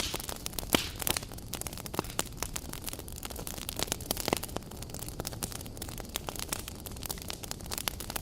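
Wood campfire burning and crackling, with dense irregular pops and snaps over a steady low rush of flame.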